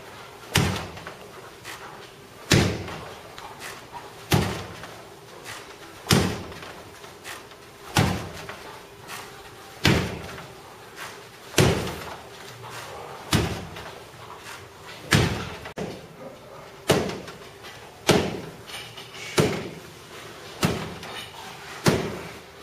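Repeated hard karate strikes landing on a conditioning target. There is a heavy blow about every two seconds, with lighter hits between.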